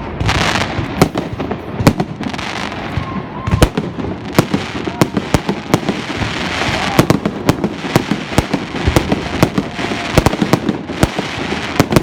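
Fireworks going off: a rapid, irregular run of sharp bangs, several a second, over a continuous crackle.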